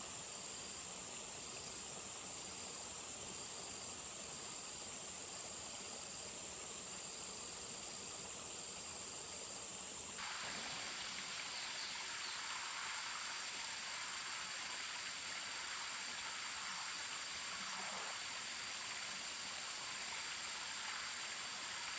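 Insects calling steadily in a high-pitched chorus, with a second call pulsing on and off in an even beat a little faster than once a second. About halfway through, the rushing of stream water comes in under them.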